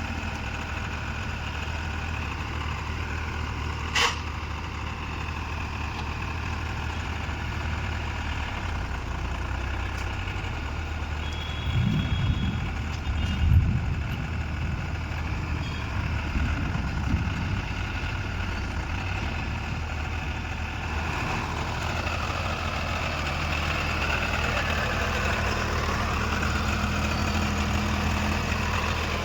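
New Holland 45 HP tractor's diesel engine running steadily, with a sharp click about four seconds in and a few low thumps around twelve to fourteen seconds in.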